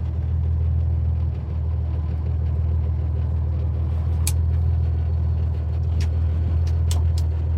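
A 1965 Chevy C50 grain truck's 292 cubic-inch inline-six running steadily at a low, even pitch. A few short, sharp clicks come over it in the second half.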